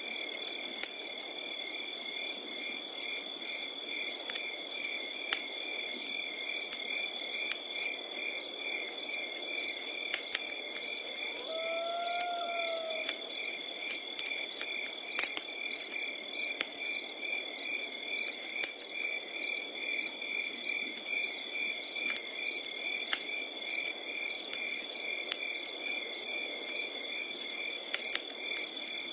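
Wood fire crackling with scattered sharp pops over a soft low hiss, under a steady chorus of night insects: fast, even chirping and one continuous high trill. About twelve seconds in, a single short call rises and falls once.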